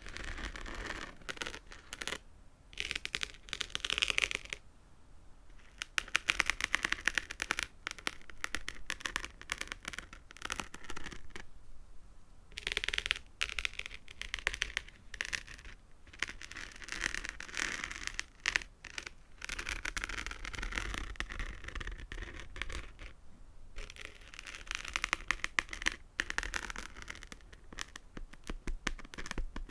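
Fingernails rapidly tapping and scratching on small hard trigger objects held close to the microphone: dense clicking and scratching in stretches of a few seconds, broken by short pauses.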